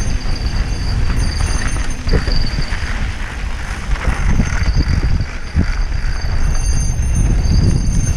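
Mountain bike rattling and bumping over a rough dirt trail on a descent, under heavy wind rumble on the microphone. A faint high whine comes and goes.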